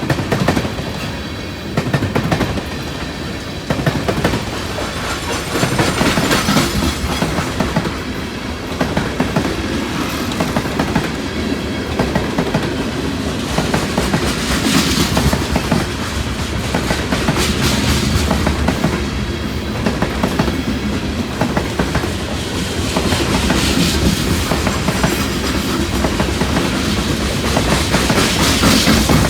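Freight train rolling past at close range, its car wheels clacking steadily over the rail joints, with the noise swelling every several seconds.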